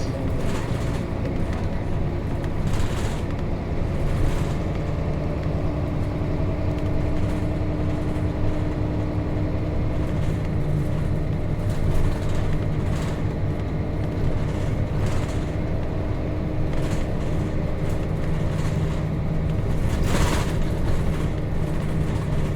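Cabin sound of a 1998 Nissan Diesel KC-RM211GSN bus under way, its FE6 straight-six diesel running steadily with small changes in engine pitch, with a few brief sharper noises about 3, 4 and 20 seconds in.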